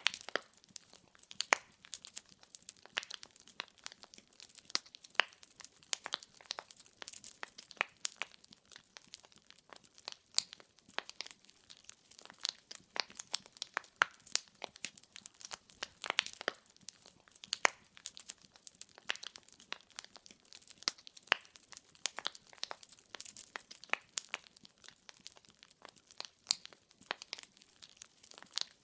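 Wood fire crackling: firewood burning with a dense, irregular run of sharp pops and snaps over a faint hiss.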